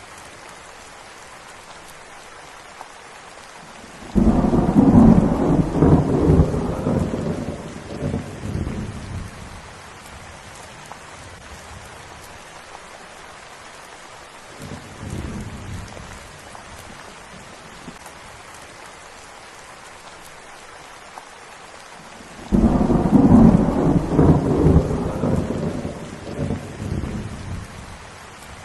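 Steady rain with two rolls of thunder, one about four seconds in and one near the end, each breaking suddenly and rumbling away over several seconds, with a fainter rumble in between.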